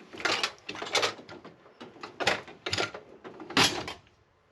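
Irregular knocks and clatters of parts being handled in a shop, about five of them, the loudest about three and a half seconds in.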